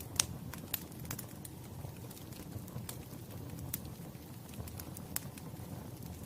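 Wood fire crackling: irregular sharp pops and snaps over a steady low rumble of burning logs, with the loudest snap about a quarter second in.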